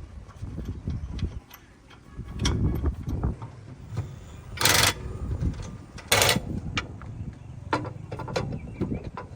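Scattered metallic clicks and knocks from work on machinery, with two short, loud hissing bursts about five and six seconds in.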